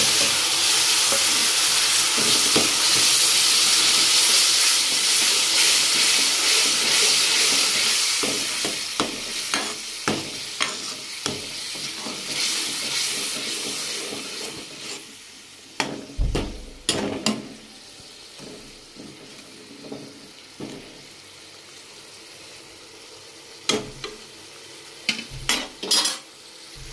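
Tomato puree hitting hot oil and fried masala in a kadhai sizzles loudly, the sizzle dying down over about fifteen seconds as the liquid settles to a simmer. A steel spoon stirring and scraping the pan adds clicks and knocks from about nine seconds in, scattered through the rest.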